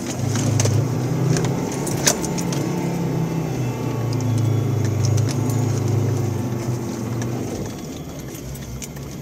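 SsangYong Korando's engine running steadily under load as the 4x4 drives through soft sand, heard from inside the cabin. It eases off near the end. Scattered clicks and rattles from loose items in the cab are heard over it.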